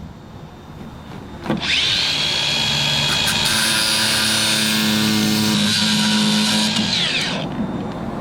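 A power tool's electric motor spins up about a second and a half in, runs steadily at high speed with a loud whine for about five seconds, then winds down near the end.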